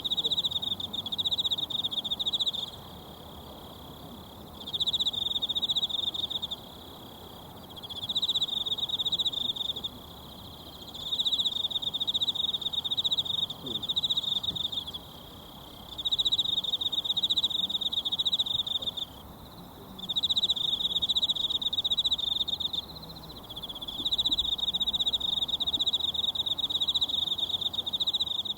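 An insect calling in high-pitched trills, in bouts of two to five seconds that repeat about seven times with short pauses between. Under it runs the steady low hiss of a mountain stream.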